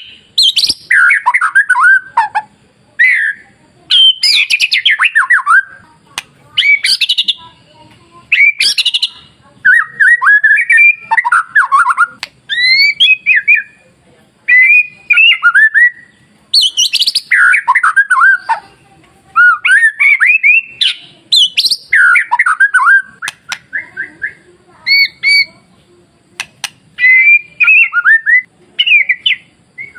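White-rumped shama (murai batu) singing: loud, varied phrases of sweeping whistles and sharper notes, each a second or two long with short pauses between.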